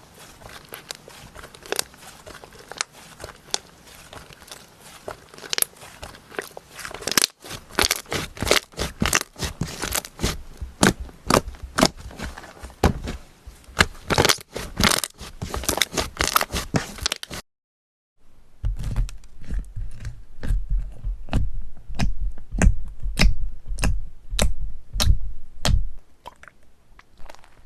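Slime being squeezed and pressed by hand, making dense crunchy crackling clicks and pops. The sound cuts out sharply about two-thirds of the way through. When it returns, the clicks come with deeper thuds, then thin out near the end.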